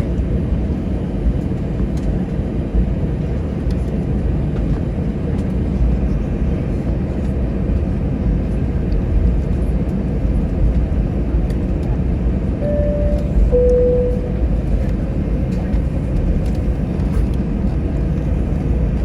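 Steady low rumble inside an Airbus A321-211 cabin on the ground, from the aircraft's engines and air systems. A little over halfway through, a two-note high-low cabin chime sounds once.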